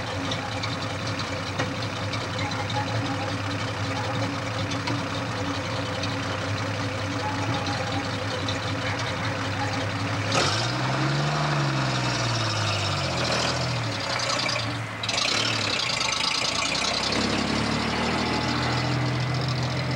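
1936 Rolls-Royce 25/30's straight-six engine idling steadily, then revved up and back down once about halfway through, then idling on.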